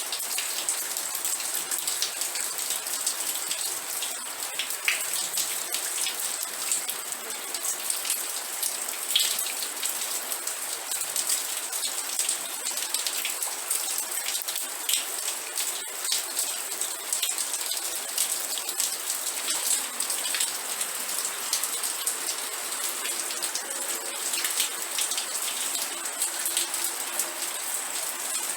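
Steady rain falling, with dense pattering of individual drops striking a surface.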